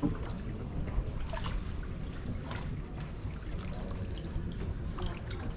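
Canal water splashing and trickling against a moving boat's hull, over a low steady rumble.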